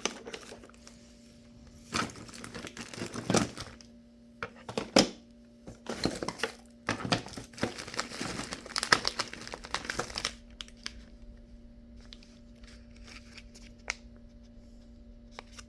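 Crinkling and rustling of packaging with small knocks, as things are rummaged through by hand, for about ten seconds; then it goes quieter, leaving a steady low hum.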